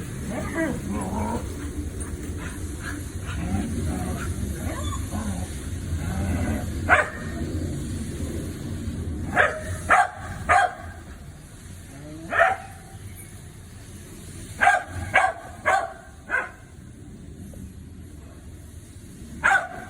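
Dog whining in wavering, pitched tones for the first several seconds, then giving short, sharp barks in quick clusters, about ten in all.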